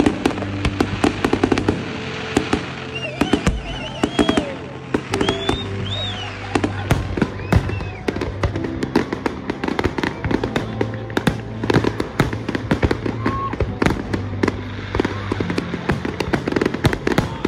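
Aerial fireworks display: a rapid, continuous string of bangs and crackles from bursting shells, with music playing underneath.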